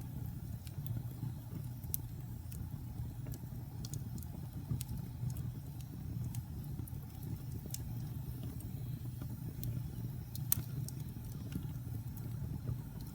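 Fire burning in a fireplace: a steady low rumble with scattered crackles and pops, one sharper pop about ten seconds in.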